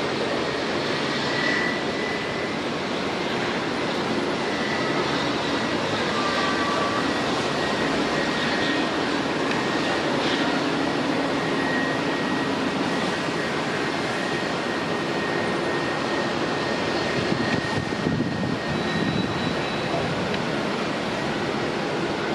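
Airliner engines running: a steady rush of noise with a thin high whine held through most of it, fading out near the end.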